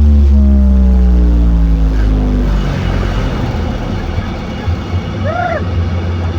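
Loud, bass-heavy sound from a carnival sound-system truck: a deep pitched tone glides downward and fades out about two and a half seconds in, leaving a steady low bass rumble with a noisy wash over it.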